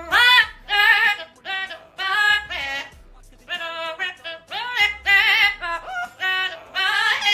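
Music: a high-pitched voice singing short, wavering phrases, with a low thud about every two and a half seconds.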